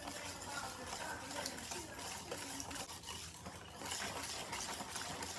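Wire whisk beating wet cake batter of oil, sugar, eggs and sweet potato purée in a glass mixing bowl: a faint, quick, rhythmic swishing and clicking of the wires against the glass.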